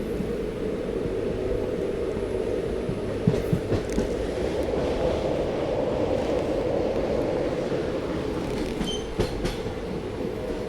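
Passenger train running along the track with a steady rumble. A few sharp clicks of the wheels over rail joints come about three to four seconds in and again near the end.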